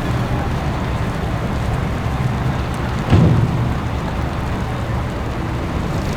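Steady outdoor city street noise: a low rumble with a hiss over it, and a brief louder low burst about three seconds in.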